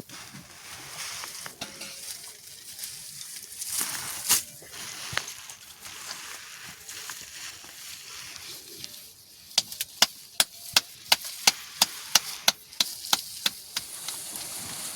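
Steady hiss of monsoon rain. Near the end comes a quick, even run of about a dozen sharp knocks, roughly three a second.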